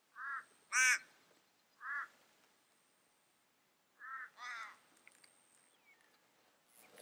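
Five short calls from a bird: three in the first two seconds, the second of them the loudest, then a quick pair about four seconds in.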